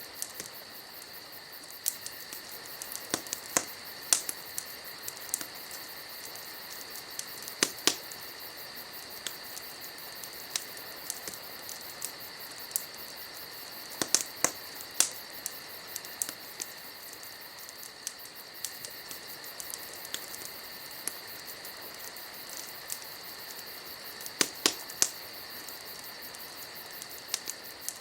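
Wood fire crackling, with irregular sharp pops and snaps, a few in quick clusters, over a steady high chirring of crickets at night.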